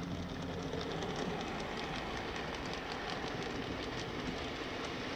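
OO gauge model train running along the track, a steady mechanical rumble with irregular light clicks from the wheels over rail joints.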